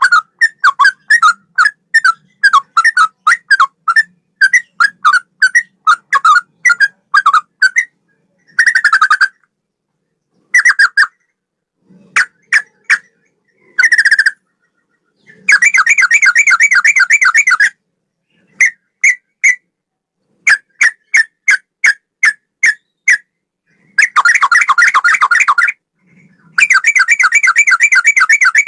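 Yellow-vented bulbul (trucukan) singing loud, sharp whistled notes in quick series, about two a second, with rapid trilled runs of two or three seconds each in the second half, in a cucak rowo–like style.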